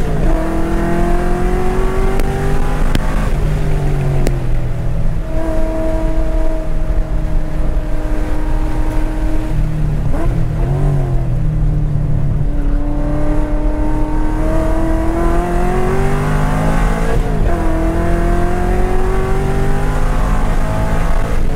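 2010 Corvette Grand Sport's LS3 V8 heard from inside the cabin on track, pulling hard with the engine note climbing slowly through each gear. The pitch drops and changes about three seconds in, again midway, and again near the end, as the driver shifts and lifts. Steady road and wind noise runs underneath.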